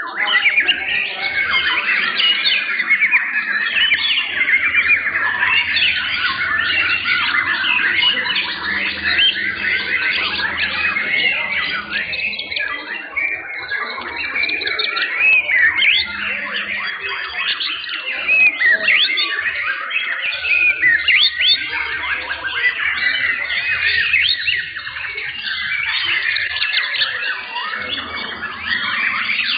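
Many young white-rumped shamas (murai batu) singing at once: a dense, unbroken chorus of rapid overlapping whistles, chirps and trills.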